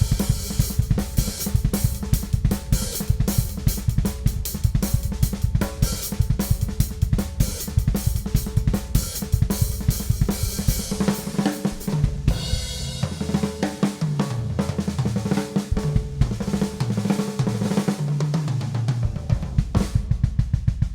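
Ludwig Classic Maple drum kit played freely: fast strokes on snare and bass drum under ringing cymbals and hi-hat. About halfway through, the playing turns to long fills around the maple toms, stepping down and up in pitch, before full-kit playing returns near the end.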